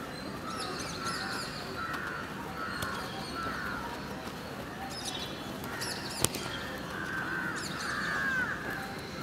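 Birds calling over and over in short, harsh, curving calls, with one sharp knock about six seconds in.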